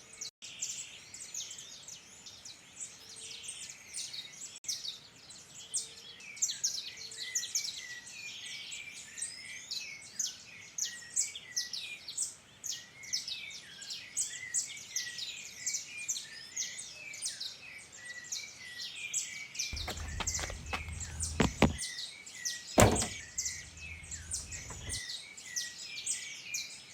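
Birds chirping and singing all the way through, a dense run of short, high calls. From about 20 to 25 seconds in, a low rumbling noise joins them, with one sharp thump near 23 seconds.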